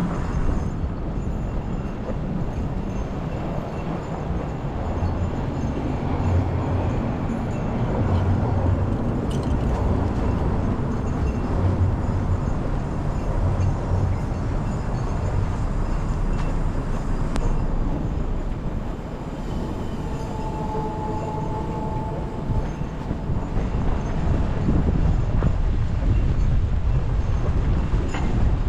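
Wind in a snowstorm buffeting the microphone: a loud, steady low rumble, with a short steady tone about two-thirds of the way through.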